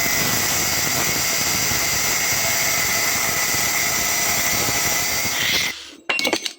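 Angle grinder cutting through a steel bearing ring: a steady high whine over harsh hiss that stops suddenly near the end, followed by a few short sharp knocks.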